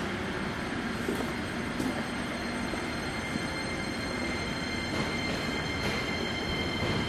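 Train running on the rails at the station: a steady rumble of wheels on track, with thin high-pitched squealing tones that grow a little stronger and louder toward the end.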